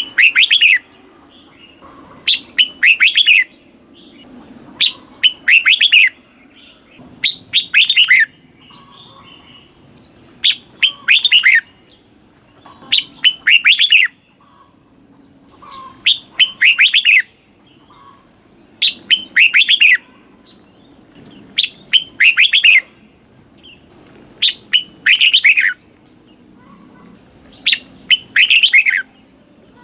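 Red-whiskered bulbul singing: short, loud phrases of quick chirping notes, repeated about every two to three seconds.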